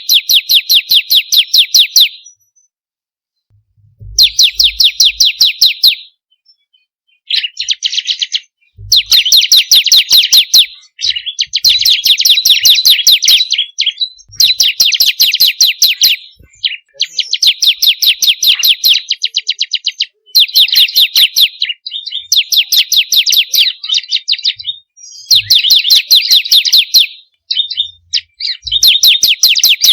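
Bar-winged prinia (ciblek kristal) calling in rapid runs of sharp, high notes, about ten a second. Each run lasts one to two seconds and is followed by a short pause, over and over.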